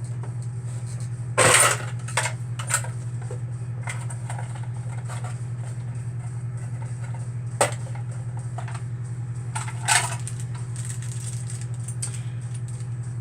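Small sewing-machine accessories, such as bobbins and parts in plastic packaging, clicking and rattling as they are handled during unpacking. The loudest rattle comes about one and a half seconds in, and there is a sharp click about seven and a half seconds in, all over a steady low hum.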